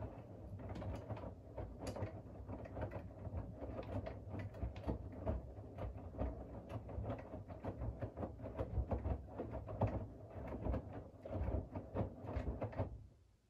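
Siemens iQ700 WG56B2090 front-loading washing machine turning its drum during the wash, the laundry tumbling with a dense run of knocks and clicks over the motor's hum. The drum stops suddenly near the end, a pause in the wash rhythm.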